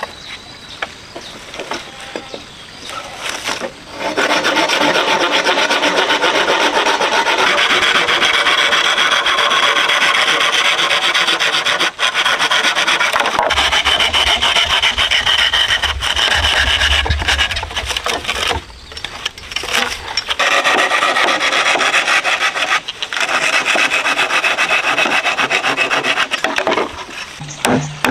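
Rasping on wood in fast, continuous strokes, starting about four seconds in, pausing briefly a few times and stopping near the end.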